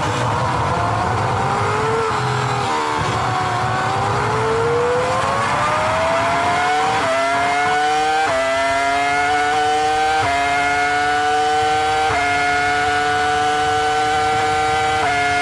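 Formula 1 V10 engine heard onboard, accelerating: the pitch climbs over the first seven seconds, then the engine runs through four quick upshifts, each a small drop in pitch followed by a steady climb, and the revs fall away near the end.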